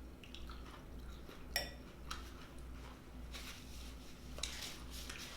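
Fork clinking and scraping against a plate or bowl while eating, with one sharper clink about a second and a half in. A faint steady low hum runs underneath.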